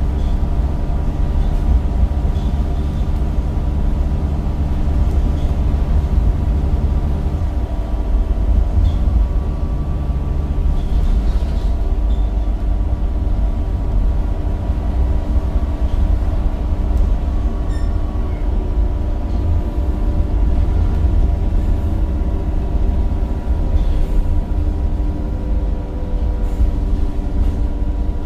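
Temsa Avenue bus's Cummins diesel engine running steadily with a low rumble and a ZF automatic gearbox in the driveline; the engine note changes about seven and a half seconds in.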